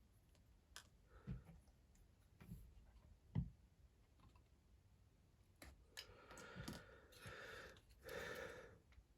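Faint clicks and taps of plastic Lego pieces being handled, followed by about three seconds of soft rubbing and shuffling.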